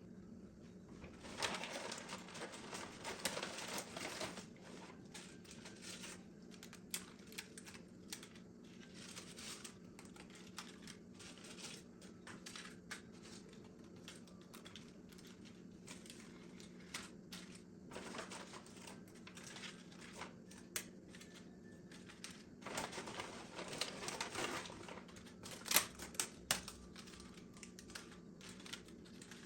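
Kitchen handling noise: bursts of rapid clicking and crinkling, heaviest a second or so in and again near the end, over a steady low hum.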